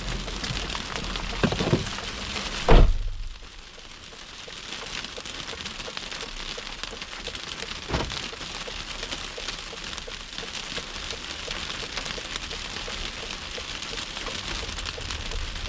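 Steady rain-like patter and hiss of wet snow and slush during snowstorm driving. A loud, sharp knock about three seconds in is followed by a quieter stretch, and a single smaller knock comes about eight seconds in.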